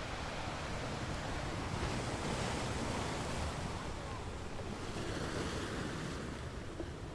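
Gentle ocean waves washing onto a sand beach: a steady rush of surf that swells a little about two seconds in and eases toward the end.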